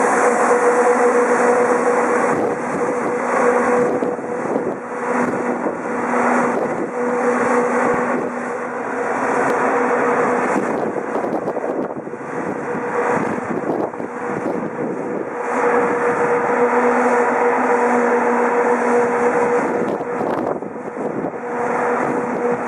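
Freight train passing at close range behind a Lokomotion Class 139 electric locomotive: the rumble and clatter of wheels on rail under a steady electric hum. The hum fades out for several seconds in the middle and comes back near the end.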